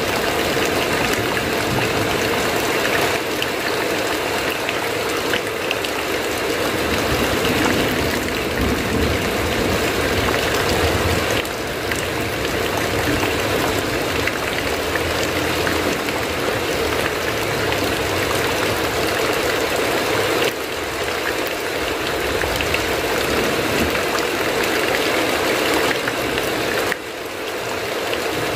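Steady heavy rain falling on a roof, with a low rumble swelling and fading beneath it at times. The level drops abruptly a few times.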